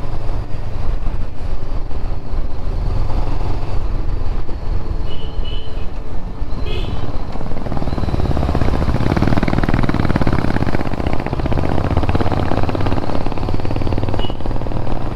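Motorcycle engine running steadily under way, with wind rushing over the microphone that grows louder around the middle.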